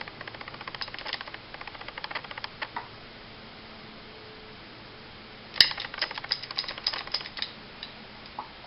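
Small metal parts of a 9mm 1911-style pistol's frame clicking as they are worked: quick runs of light clicks, a pause, then one sharp snap about five and a half seconds in followed by more rapid clicking.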